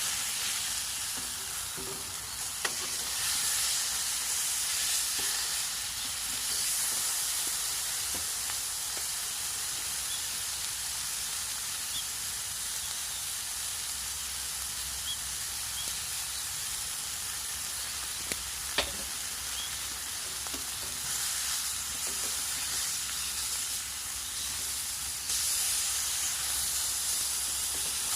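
Steak sizzling in a homemade stainless-steel frying pan over a wood fire: a steady frying hiss, with a couple of sharp clicks.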